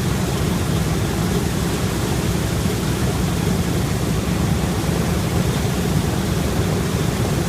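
The B-17 bomber's Wright R-1820 Cyclone radial engines running steadily after start-up, a dense low propeller-driven rumble.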